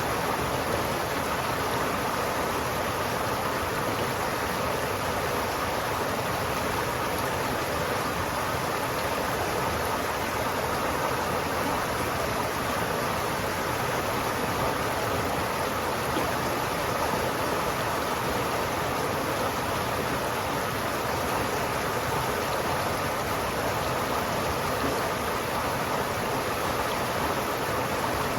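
River water flowing steadily over rocks: a constant, even rushing with no breaks.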